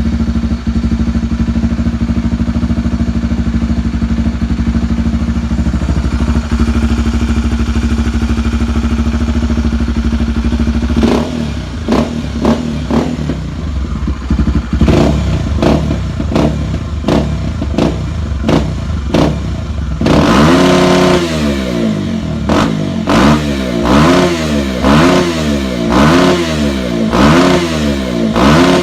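Honda Tornado's single-cylinder four-stroke engine with an aftermarket Belparts exhaust, revved hard against its rev limiter. It holds a steady high note for about ten seconds, then gives a run of sharp throttle blips, then rises and falls in pitch again and again, about once a second.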